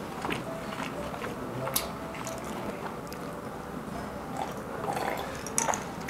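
A person chewing and biting Peking duck close to the microphone. A few sharp clicks are heard along the way.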